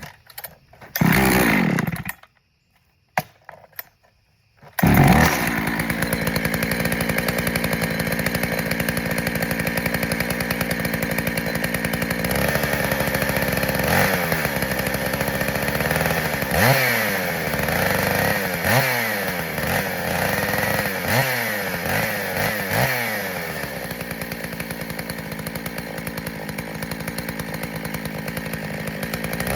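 Husqvarna 266SE two-stroke chainsaw cold-started after sitting several days: it fires briefly on a pull, sputters again, then catches about five seconds in and runs steadily. Through the middle it is revved in a series of quick throttle blips, then settles back to steady running.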